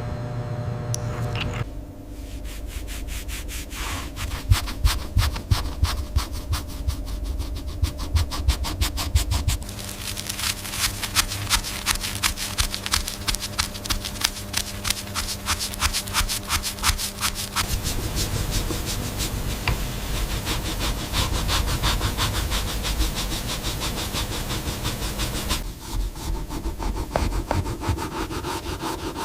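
Rapid back-and-forth scrubbing strokes on tarnished antique silverware, in bursts of even rhythm that quicken about a third of the way in and change near the end.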